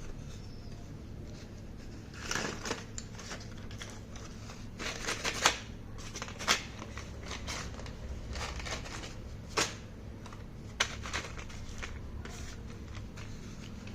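Slate pencils and their packaging being handled: irregular crinkles, clicks and a few sharp snaps over a low steady hum, the loudest snaps about five and a half and six and a half seconds in.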